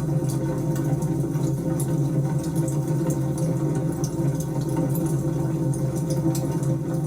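Wood fire burning: a steady low roar with scattered sharp crackles and pops.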